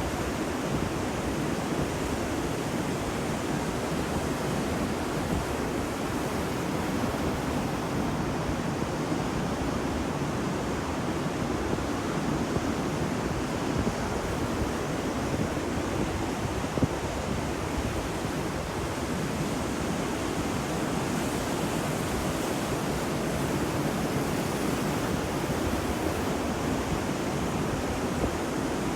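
Ocean waves breaking on a beach: a steady wash of surf noise.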